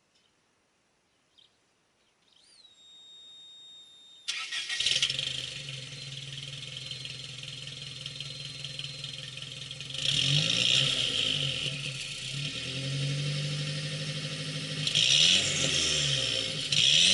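A steady high electronic tone sounds for about two seconds. Then the 1985 Nissan Silvia S12's CA18ET 1.8-litre turbo four-cylinder engine cranks, catches and idles through its exhaust, with throttle blips that rise and fall in pitch about ten seconds in and twice near the end.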